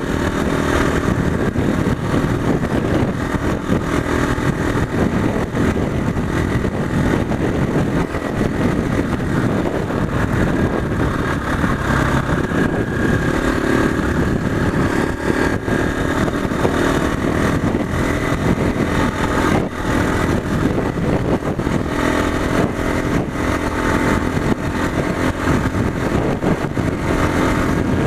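Motorcycle engine running steadily while being ridden, with a constant rough noise over the engine note.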